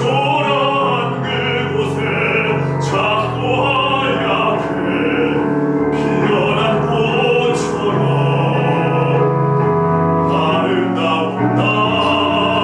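Music: an operatic-style voice singing long, wavering held notes over instrumental accompaniment.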